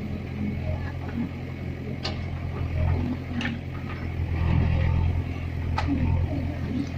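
Tractor's diesel engine running steadily under a low hum, with metal clanks and rattles three times, about two, three and a half, and six seconds in.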